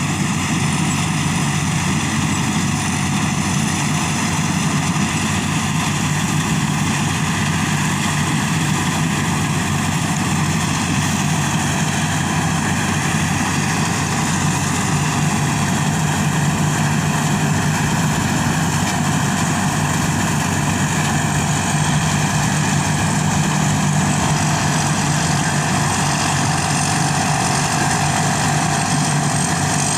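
Combine harvester engine running at a steady speed, a continuous even drone with no revving.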